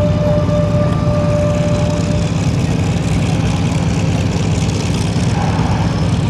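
Steady jet engine noise from a four-ship diamond of F/A-18 Hornets flying in to land.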